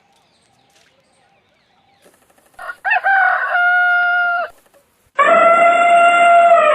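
Rooster crowing twice: two long, loud calls with a short gap between them, the second sliding down in pitch at its end.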